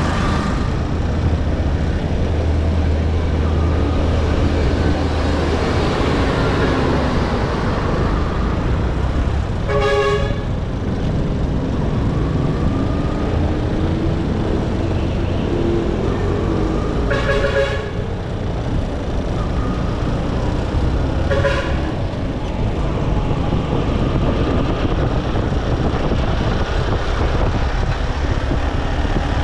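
Motorcycle engine running with road and wind noise while riding in traffic, broken by three short vehicle horn toots: one about a third of the way in, a slightly longer one past halfway, and another a few seconds later.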